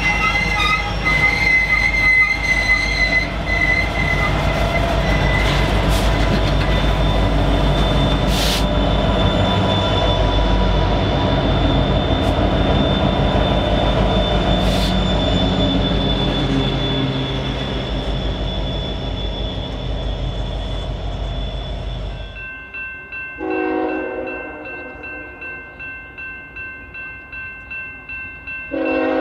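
Train rolling past: a heavy rumble with steady metallic wheel squeal, fading slightly over the first twenty seconds. The sound then drops off abruptly, and a locomotive horn sounds briefly about three-quarters of the way through and again at the very end.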